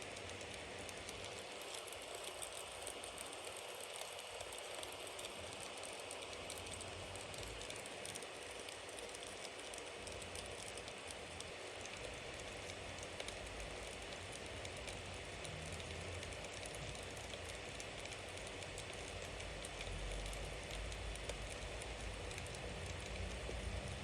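Bonfire burning steadily, a dense run of small crackles and pops over a hiss, with a low rumble that swells now and then and grows near the end.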